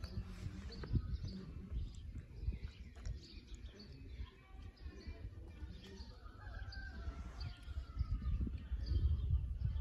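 Small birds chirping and twittering all around in a town square, with a wavering whistled call about two-thirds of the way in. A low, uneven rumble on the microphone runs underneath and swells near the end.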